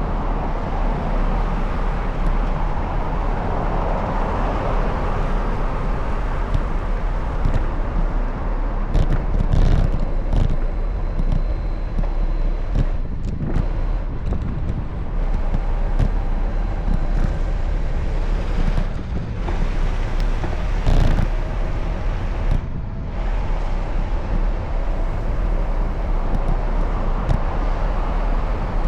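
Steady rushing road noise and wind on the microphone from a bicycle being ridden in city traffic, with cars going by and a few brief knocks.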